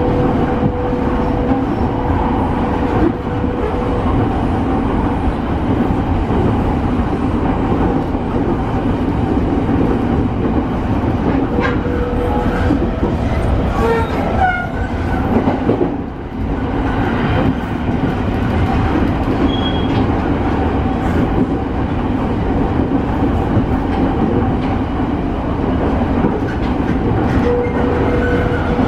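Interior running noise of a JR East E217 series electric train's motor car, with Mitsubishi IGBT-VVVF traction equipment, travelling between stations: steady noise of wheels on rails and running gear, with a faint steady hum that comes and goes. There are a few brief squeaks about fourteen seconds in and a short drop in level about sixteen seconds in.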